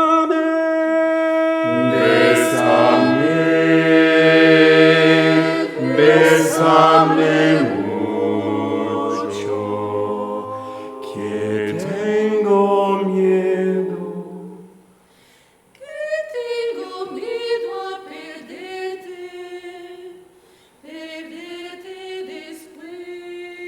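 A cappella vocal ensemble singing in close harmony: long held chords, with low voices joining about two seconds in. After a short break around the middle, shorter, quicker sung phrases follow.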